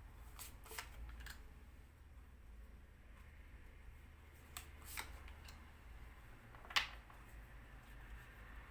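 Tarot cards being handled and laid down: a few scattered light clicks and snaps, the sharpest about seven seconds in, over a low steady hum.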